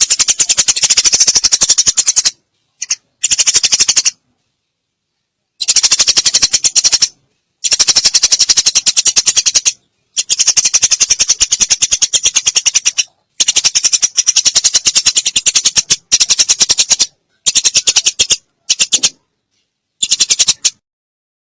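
Eurasian tree sparrow (burung gereja) giving rapid, fast-repeated agitated chirping in the style of a fighting sparrow, in bursts of one to three seconds broken by silent pauses.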